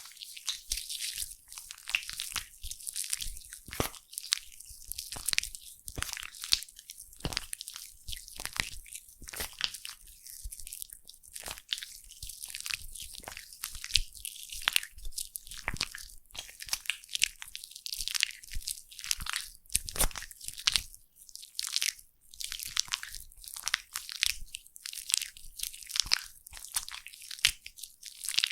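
Foam crackling and popping: a dense, continuous run of tiny bursting bubbles with scattered sharper pops.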